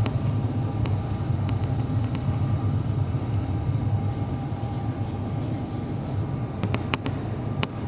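Steady low rumble of airflow and the Rolls-Royce Trent XWB-84 engines heard inside the cabin of an Airbus A350-941 airliner, with a few light clicks and a short cluster of sharper clicks near the end.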